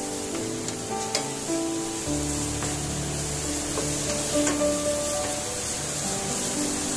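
Blended onion, garlic and chilli paste with lemongrass sizzling in oil in a nonstick pan as it is stirred with a wooden spatula, which knocks lightly on the pan now and then. Soft background music with a slow melody plays underneath.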